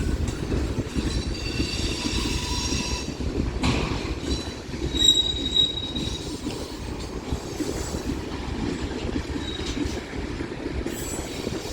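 Freight train cars rolling past: a steady rumble of wheels on rail with running clatter, and high-pitched wheel squeals from about a second in and again around five seconds.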